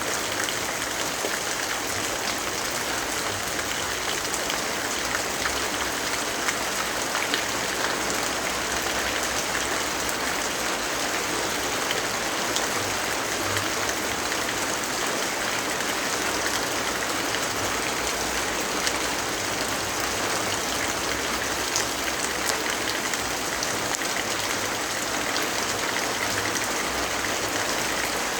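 Steady rainfall: an even, unbroken hiss with scattered faint drop ticks through it.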